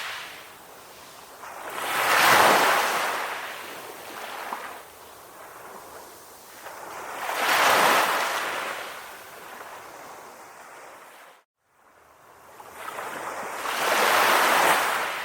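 Ocean waves breaking and washing in, three swells that build and fade about every five to six seconds. The sound drops out to silence for a moment about two-thirds of the way through.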